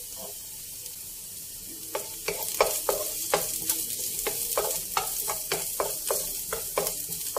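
Onion and garlic sizzling in a nonstick wok, with a steady hiss. From about two seconds in, a wooden spatula stirs and scrapes against the pan in quick strokes, about three a second.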